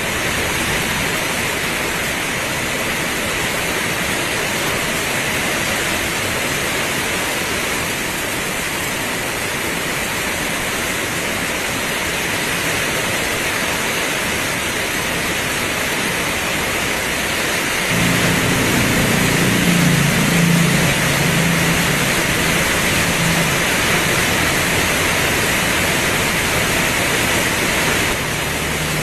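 Heavy rain pouring steadily. About two-thirds of the way in, a low rumble joins it, swells, then stops abruptly near the end.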